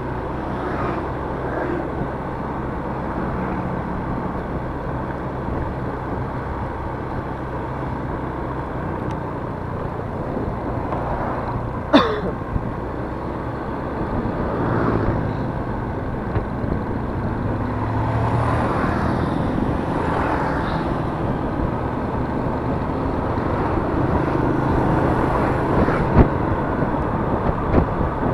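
Yamaha Mio S 125 cc scooter engine running under way, with steady road and wind noise, its pitch rising and falling with the throttle. About twelve seconds in there is one short, sharp sound that falls quickly in pitch.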